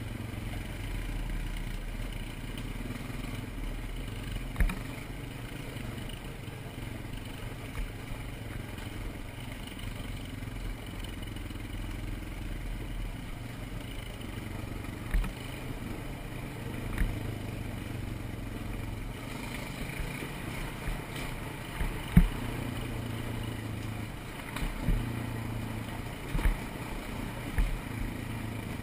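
ATV engine running steadily, with sharp knocks and clatter every few seconds, the loudest about two-thirds of the way through.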